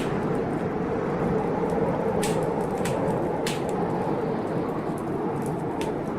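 Wood fire crackling in a fireplace, with a few sharp, irregular pops, over the steady rush of heavy rain in a storm.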